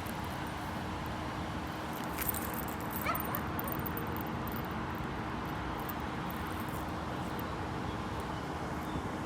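Small dog, a Chihuahua and miniature pinscher mix, gives a brief rising whine about three seconds in, over steady outdoor background noise.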